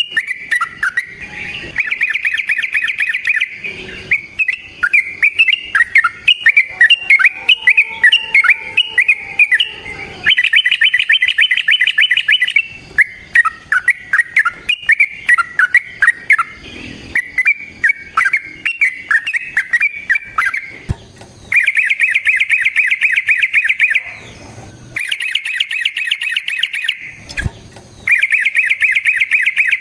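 Yellow-vented bulbul (trucukan) singing: bursts of varied chattering phrases alternate with long rapid trills of fast repeated notes, each trill lasting two to three seconds.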